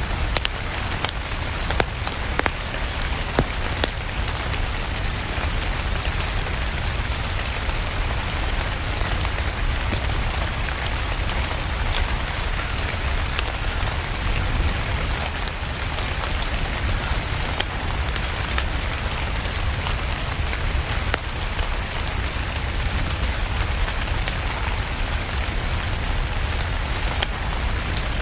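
Steady rain mixed with a crackling wood fire: an even hiss over a low rumble, with scattered sharp pops and clicks.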